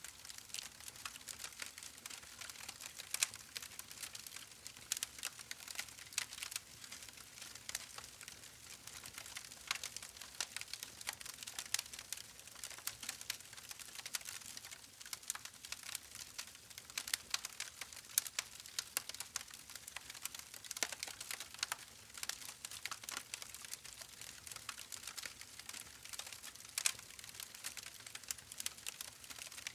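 Wood fire in a fireplace crackling: a steady soft hiss with many small irregular snaps and pops, a few sharper ones standing out.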